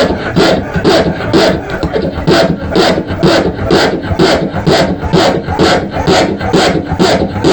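A congregation clapping in a steady rhythm, about two claps a second, over many voices shouting and praying at once.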